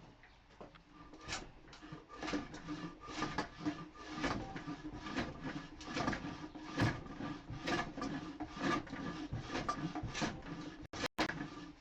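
Hand plane scraping across reclaimed pallet wood in quick, short strokes, about two a second, starting about two seconds in, over a steady background hum. The sound drops out briefly near the end.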